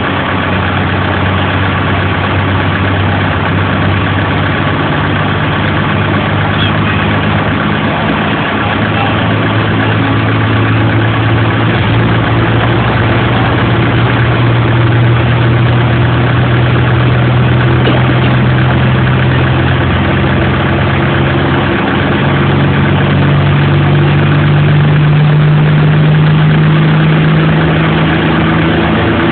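Tractor engine running steadily and loudly under power, its pitch stepping up about a third of the way in and rising again near the end.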